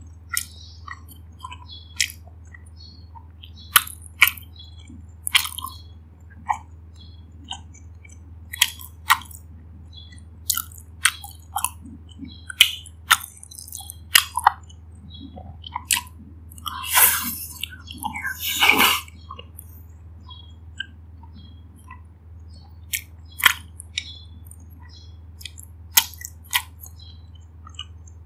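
Close-miked chewing of dumplings: wet mouth clicks and smacks every second or so, with two longer, louder stretches a little past halfway.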